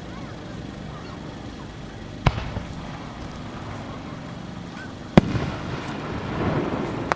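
Fireworks: two sharp booms of shells going off about three seconds apart. The second is louder and trails into a rumble of a couple of seconds.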